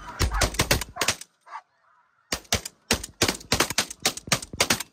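A rapid volley of shotgun blasts from several hunters firing at snow geese, in two bursts with a pause of about a second between them. Snow geese honk faintly in the gap.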